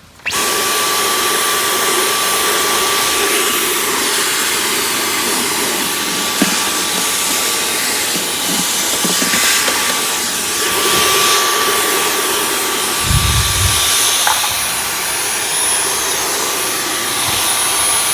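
Dyson V11 cordless stick vacuum with its long crevice tool switching on abruptly and running steadily with a thin high whine over the rush of air. A brief low bump comes about thirteen seconds in.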